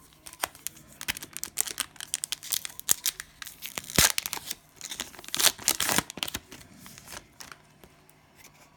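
Cellophane wrapper of a trading-card cello pack being torn open and crinkled, a dense run of sharp crackles that is loudest in the middle and dies away near the end.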